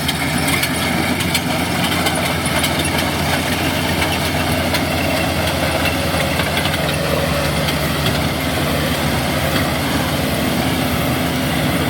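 Kubota DC70G combine harvester running steadily while harvesting, its cutter bar (reciprocating knife) clattering quite loudly over the engine.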